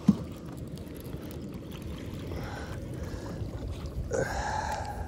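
Steady low wind-and-water rumble around a small kayak on choppy water while a bass is landed, with one sharp knock just after the start and a brief louder rush about four seconds in as the fish is swung aboard.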